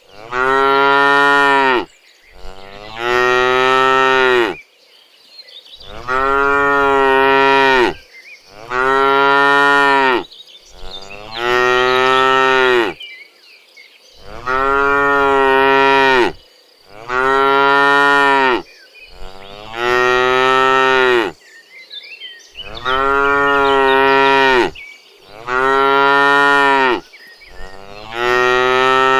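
Cattle mooing over and over: about a dozen long, loud moos one after another, each lasting a second or two, with short pauses between them.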